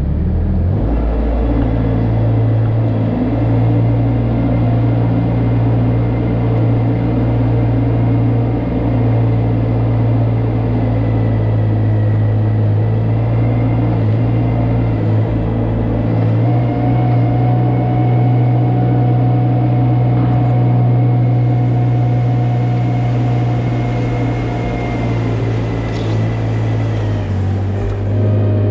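Tractor engine running steadily with a thin high whine over it. The engine note rises slightly about two-thirds of the way through and drops back near the end.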